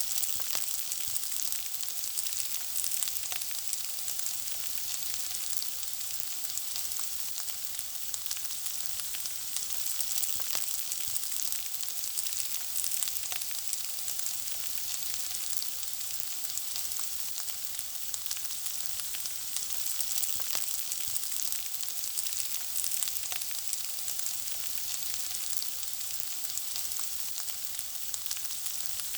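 Food frying: a steady, high sizzle dotted with constant small crackles and pops.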